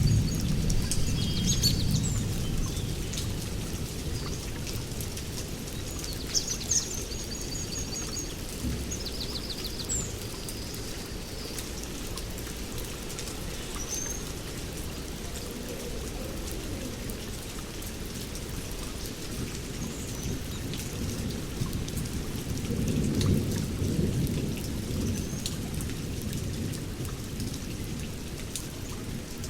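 Steady rain with low rolls of thunder, one fading out at the start and another swelling about two-thirds of the way through. Birds give short high chirps and quick trills over it, mostly in the first third.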